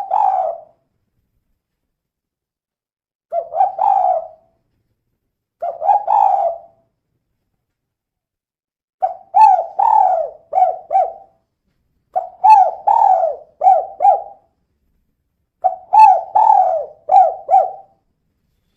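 A female spotted dove cooing in repeated phrases of low notes: three short phrases, then three longer ones of about five notes each, with full silence between phrases.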